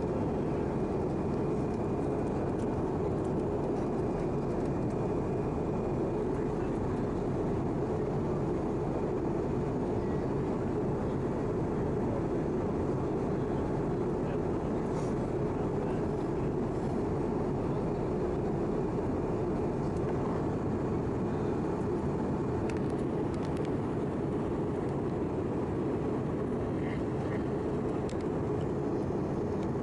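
Steady cabin noise inside an Airbus A319 in descent towards landing: the even drone of its CFM56 engines and the airflow over the fuselage, heard from a window seat.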